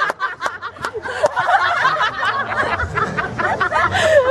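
Several people chatting and giggling over one another, their words not clear.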